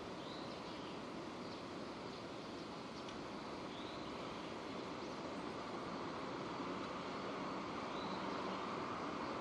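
Steady rain falling, an even hiss with no change in strength, with a bird chirping briefly and faintly about three times.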